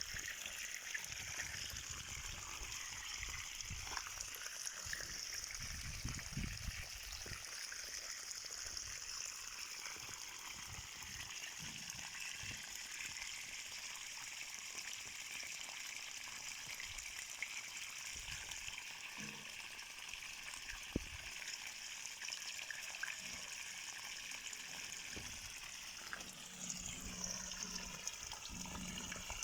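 Running water, a steady trickling and gushing flow of a stream.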